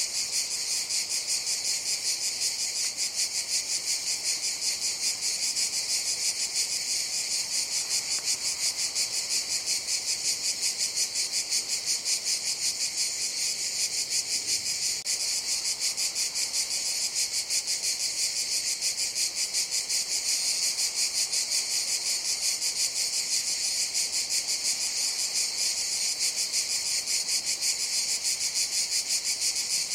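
Cicadas chorusing: a steady, high-pitched buzzing drone with a fast, even pulse.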